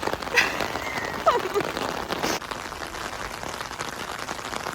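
Steady rain falling, with many fine drop ticks close by; a brief falling vocal sound about a second in.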